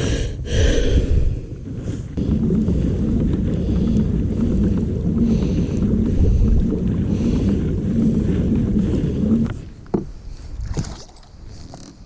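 Kayak under way on the water: a steady low rumble with a faint regular pulse, about one and a half beats a second, that falls away about ten seconds in.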